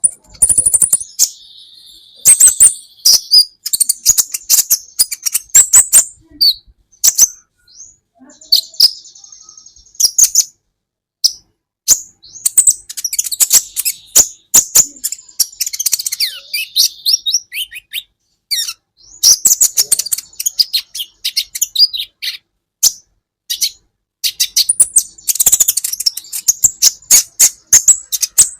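Sunbird (kolibri ninja) singing: rapid bursts of sharp, high chirps and trills, broken by short pauses, with a held high note near the start.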